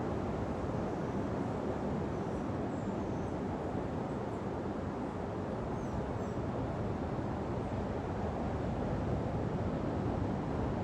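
Steady rushing of ocean surf washing onto a beach, an even noise with no breaks. A few faint high chirps sound over it in the first half.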